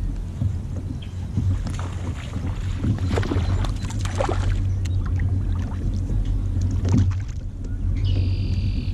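A kayak out on the water: splashing and knocks against the hull over a steady low rumble like wind on the microphone. A brief high-pitched tone comes in near the end.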